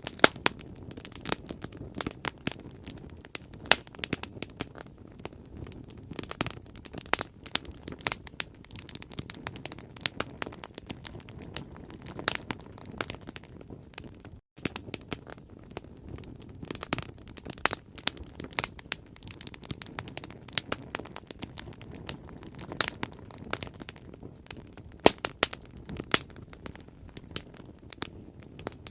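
Bonfire crackling and popping: dense sharp snaps of burning wood over a steady low rumble of flame. The sound cuts out for an instant about halfway through.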